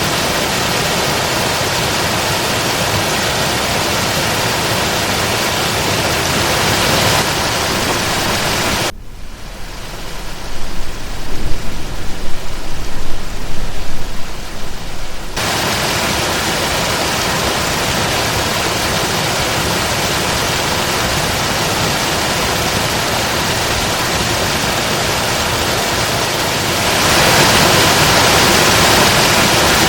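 Eselbank Waterfall: a steady rushing of falling water. About nine seconds in, it gives way for some six seconds to a muffled, uneven low rumble. Near the end the rushing grows louder.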